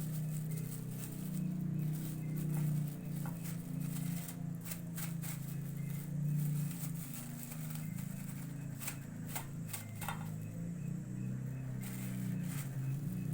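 Hands kneading and mashing wet fishing-bait dough mixed with tuna in a bowl: irregular squelching clicks over a steady low hum.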